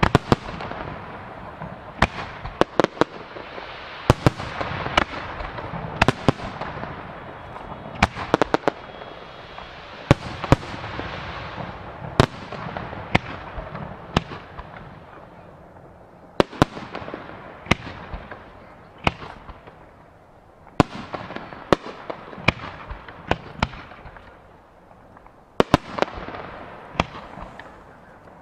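Aerial firework shells bursting in quick, irregular succession: sharp bangs, often several close together, each trailing off in a fading hissing crackle. The barrage thins out briefly twice in the second half, then picks up again.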